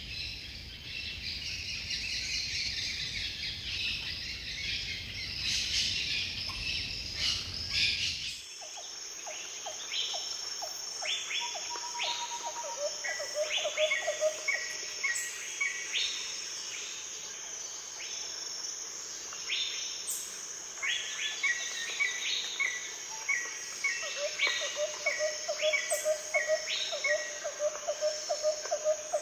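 Rainforest birds calling and chirping over a steady high-pitched insect drone. About eight seconds in the sound cuts to a different recording, with repeated short falling whistles and runs of rapid low pulsed notes.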